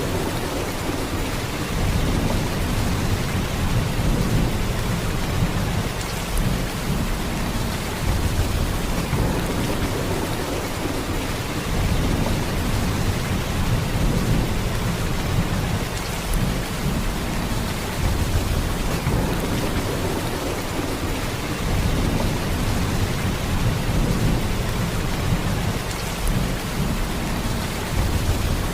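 Heavy rain falling in a steady downpour: an even hiss with a deep rumble underneath that swells and eases every few seconds.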